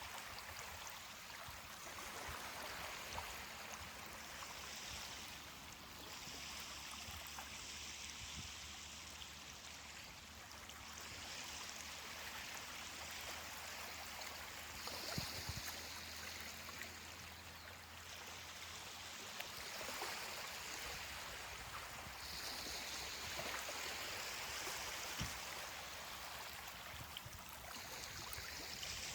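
Small ocean waves washing onto a beach: a steady hiss of moving water that swells and eases every few seconds, with faint crackles.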